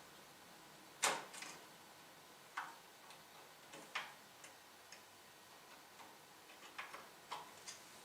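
Scattered light clicks and taps of small hard parts being handled, irregularly spaced, the loudest about a second in.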